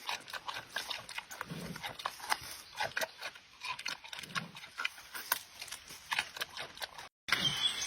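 Giant panda chewing, with irregular crisp crunching and cracking and a few dull low thuds between them.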